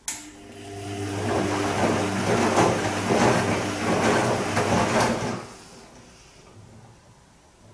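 Bosch Serie 2 VarioPerfect washing machine on its Silk programme turning the drum once: a click as the motor starts, then motor hum with water and laundry sloshing in a regular rhythm for about five seconds, stopping suddenly.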